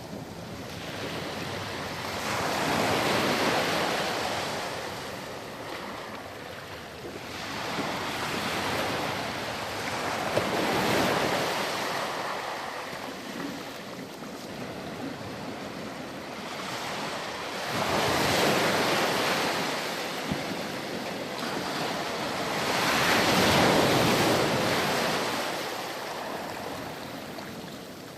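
Ocean surf on a sandy beach: waves break and wash up the shore in four slow surges, each swelling and then fading over a few seconds.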